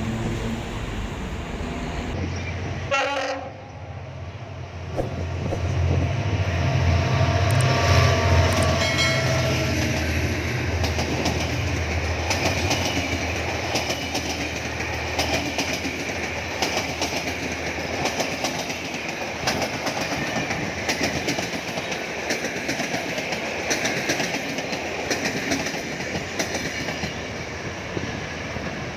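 Diesel train running on the line: a low diesel engine rumble swells a few seconds in, then the wheels keep clattering over the rail joints with a steady running noise.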